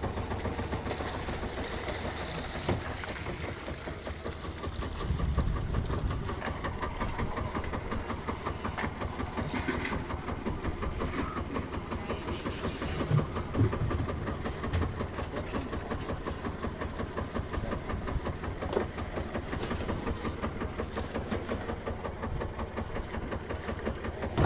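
Fishing boat's engine running steadily with a fast, even chugging, and a few louder knocks near the middle.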